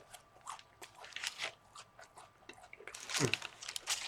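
Close-up chewing of a sausage, egg and biscuit sandwich: irregular wet mouth clicks and soft crunches, getting denser and louder near the end.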